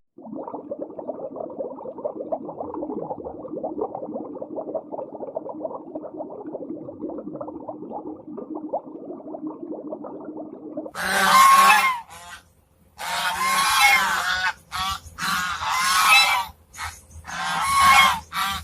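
A flock of waterfowl calling. For about the first eleven seconds it is a dense, muffled chatter of many birds; after that come loud, separate calls about a second long, repeated several times with short gaps.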